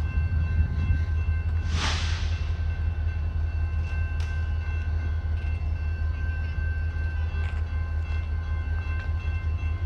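Idling locomotive engine: a steady low rumble with a thin, steady whine over it, and a brief hiss about two seconds in.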